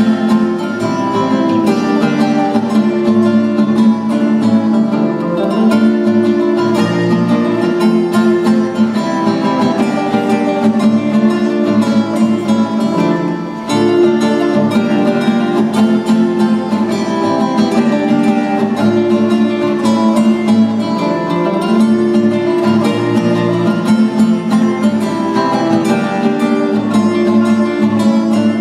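A small ensemble of plucked string instruments playing an arranged film theme, dense and continuous, with a brief drop in loudness about halfway through.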